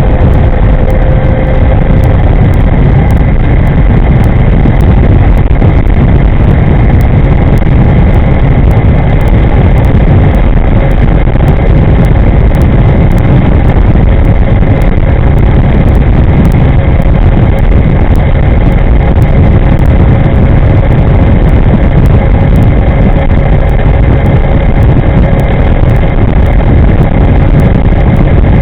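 Loud, steady wind rush over the microphone of an electric scooter riding at speed, with a faint steady whine above it.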